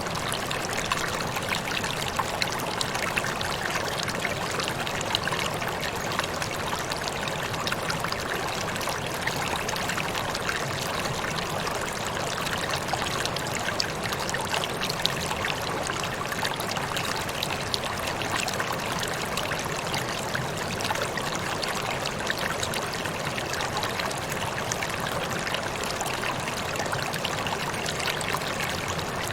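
Small waterfall with water splashing and trickling steadily over rocks, a constant rushing patter with many small splashes.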